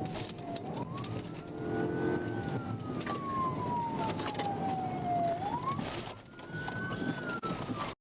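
Police car siren in wail mode, rising quickly and falling slowly in pitch, two full cycles, over the steady road and engine noise of a car in a high-speed pursuit.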